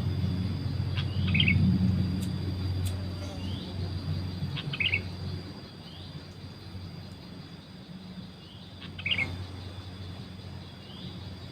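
Short bubbly calls of sooty-headed bulbuls (kutilang), three times a few seconds apart, with a thin rising chirp repeating regularly between them. A low steady hum underneath fades out about halfway through.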